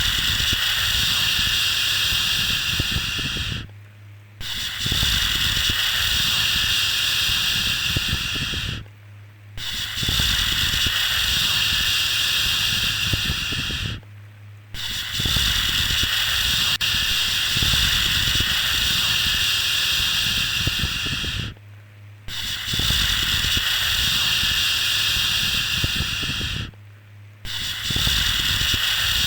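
Long, steady 'shhh' shushing sounds, the soothing white noise used to settle a baby to sleep. They repeat one after another, each lasting about four to seven seconds, with a brief pause of under a second between them.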